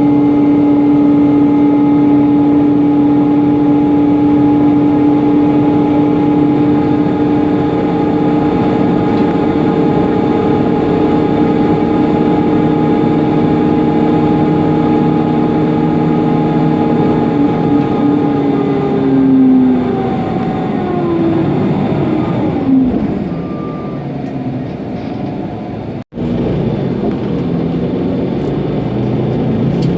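Mercedes-Benz Conecto NGT city bus heard from on board, its noisy engine cooling fan giving a loud steady whine over the running of the CNG engine. About two-thirds of the way through, the whine slides down in pitch as it slows. Near the end there is a brief dropout, and the bus runs on with a rougher sound.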